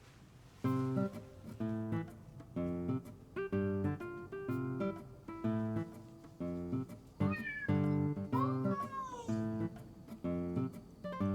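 Plucked-guitar background music with a steady chord rhythm, and a domestic cat meowing twice, about seven and eight and a half seconds in.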